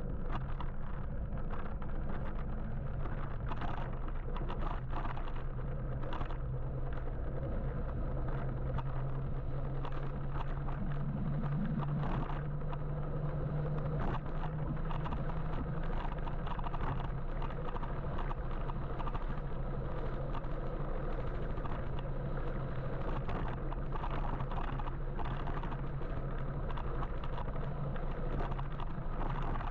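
Steady road and traffic noise heard from an electric motorbike riding in city traffic, with a low hum that swells for several seconds near the middle and scattered brief clicks.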